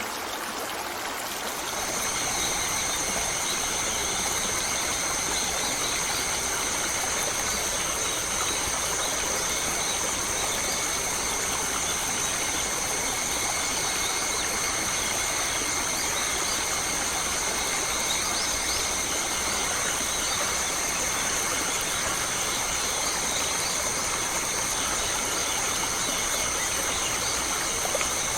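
Running stream water, a steady rushing. About two seconds in, a steady high-pitched drone of several held tones joins it and carries on throughout.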